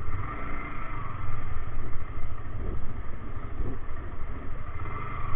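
Yamaha R15M's 155 cc single-cylinder engine running steadily as the bike sets off.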